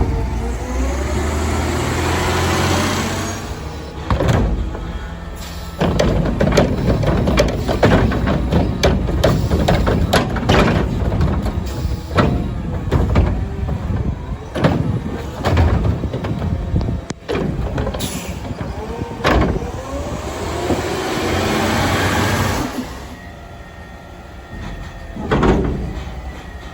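CNG Autocar ACX garbage truck working a Curotto Can cart arm. The engine revs up in rising sweeps near the start and again near the end as it drives the hydraulics, and in between comes a long run of bangs and clanks as a cart is gripped, tipped and set back down.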